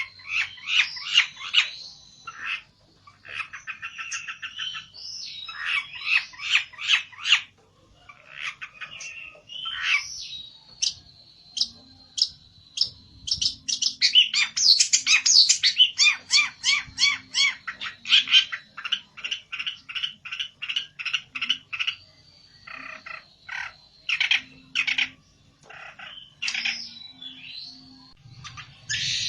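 A pelentet songbird singing hard, in phrases of fast, repeated chattering notes with short gaps between them, the agitated song of a bird challenging a rival. A thin, steady high tone runs beneath much of it.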